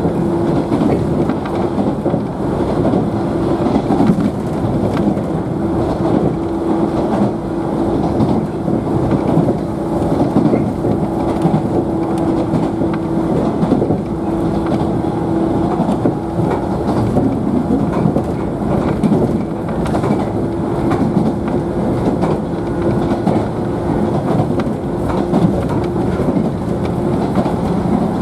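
Inside a JNR 113-series electric train motor car running between stations: a continuous rumble of steel wheels on rail with many small clicks over the joints, and a steady hum from the running gear underneath.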